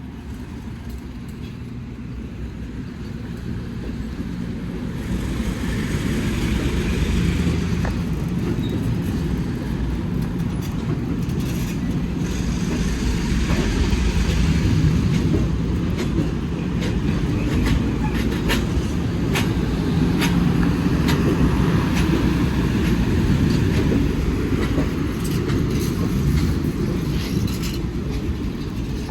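Train rolling along the track: a steady low rumble with irregular sharp clicks of the wheels over the rails, growing louder over the first several seconds and then holding.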